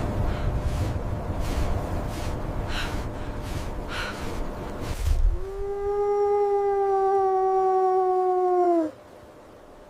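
Low rumbling noise, then a wolf's single long howl held on one pitch for about three and a half seconds, dipping at the end and stopping abruptly.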